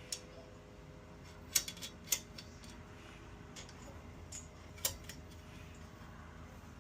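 Scattered sharp clicks and light metallic taps from hand tools and small metal parts being handled on a minibike, about a dozen in irregular clusters, over a faint steady hum.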